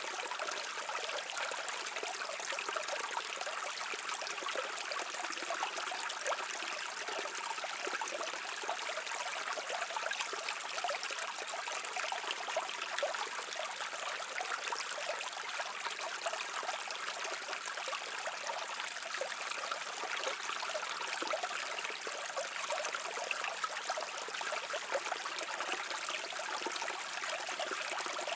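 A mountain stream flowing steadily over rocks, a continuous trickling and splashing of water.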